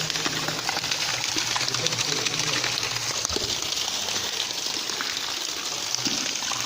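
Water running and splashing steadily from holes in a tunnel wall, a continuous spattering rush.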